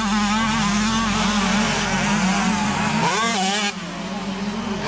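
125cc two-stroke motocross bike engines revving, their buzzing pitch rising and falling with the throttle. About three seconds in one revs up sharply, then the overall level drops.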